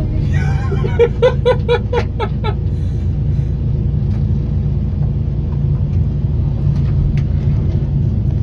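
Excavator engine running steadily under load as the machine slews around. About half a second in comes a quick run of short pitched cries from a voice, lasting a couple of seconds.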